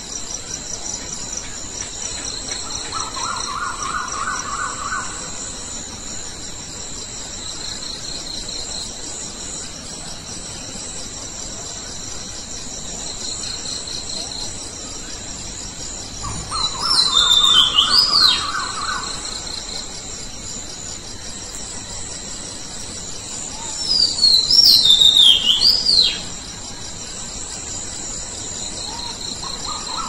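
Birds calling at night over a steady chorus of crickets. A quick run of short notes repeats three times. Two loud, shrill calls with sharp rising and falling glides, about 17 and 24 seconds in, are the loudest sounds.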